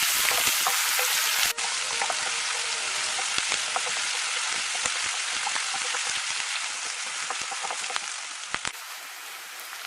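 Chopped onion, garlic, ginger and green chillies sizzling as they sauté in hot coconut oil in a pan, with scattered light clicks. The sizzle drops quieter near the end.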